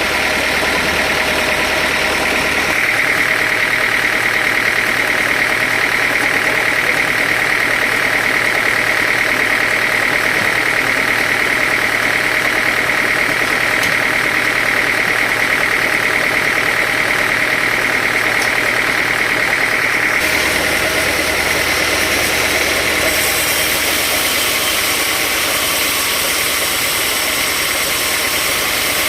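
Sawmill machinery running steadily, with a constant high tone over the machine noise. The sound changes abruptly twice, about three seconds in and again about twenty seconds in.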